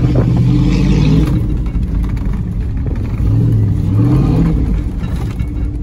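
Rebuilt 6.0-litre V8 (LQ9, with an LS6 cam) in a Cadillac Escalade, heard from inside the cabin, revving up twice under acceleration: the pitch climbs in the first second and again about three seconds in.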